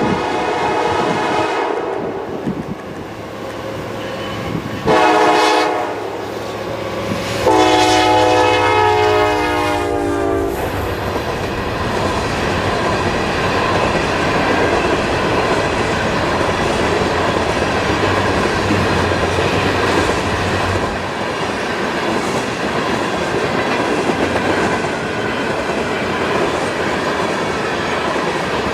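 A diesel freight locomotive's air horn sounds a blast that ends about two seconds in, then a short blast, then a long blast lasting about three seconds. This is the close of a grade-crossing horn pattern. The train then rolls past with a steady clatter of wheels on the rails and a low locomotive engine hum that fades out about two-thirds of the way through.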